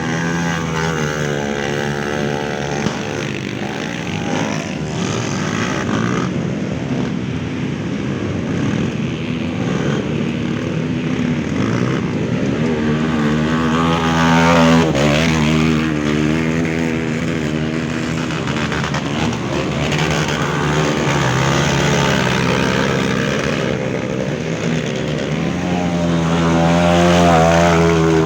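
Off-road dirt bike engines revving and labouring, pitch rising and falling as the throttle opens and closes, climbing again near the end.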